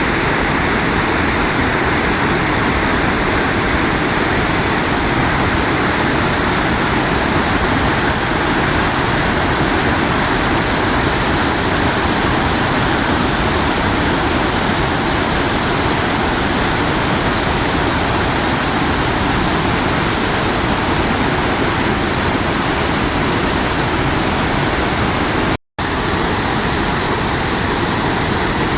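Water released from a dam during an emergency flood discharge, rushing in a loud, steady torrent. It is cut off for an instant about 26 seconds in.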